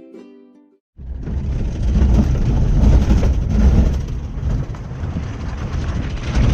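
Ukulele music fading out, then from about a second in the loud, low, uneven rumble of a car driving on a rough dirt road.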